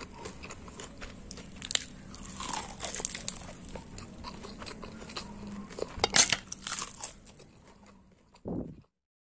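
Someone chewing a crisp fried tofu spring roll: irregular crunches of the fried wrapper, the loudest a little after 6 seconds in, ending near the end.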